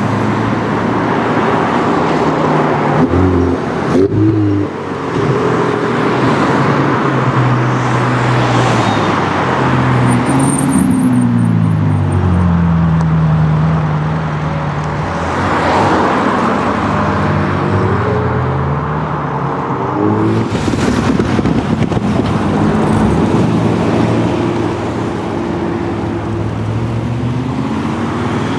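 Several performance cars driving past and accelerating one after another, their engine notes rising through the revs and dropping at each gear change.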